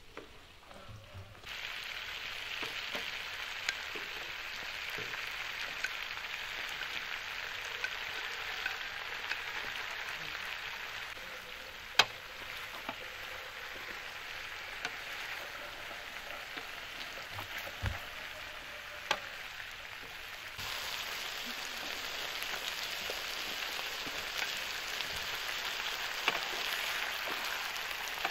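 Chicken drumsticks and chopped onions sizzling steadily in oil in a non-stick pan while being stirred with a wooden spatula, starting after about a second and a half. A few sharp clicks cut through the frying, the loudest about twelve seconds in.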